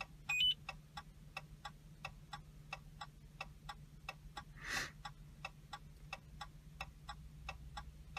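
Even ticking of the 2017 Ram 1500's hazard-light flasher, about three ticks a second, with the ignition off. A short two-note electronic beep sounds just under half a second in.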